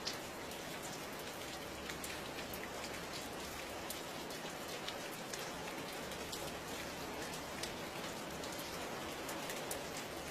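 Steady rain falling on a surface, an even hiss with the ticks of individual drops scattered through it.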